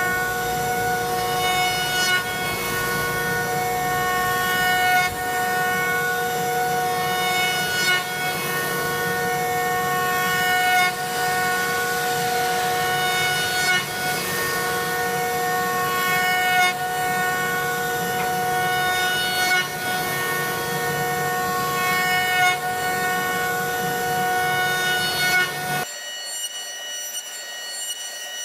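A woodworking power tool running steadily with a high whine while cutting wood, swelling in level every few seconds. Near the end the sound drops abruptly and thins out.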